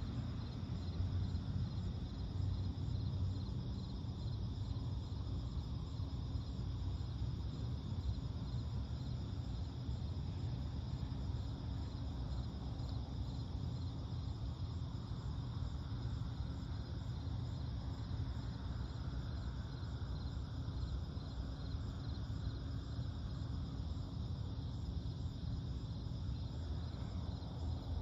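Night chorus of crickets trilling steadily in high pulsing tones, over a constant low rumble.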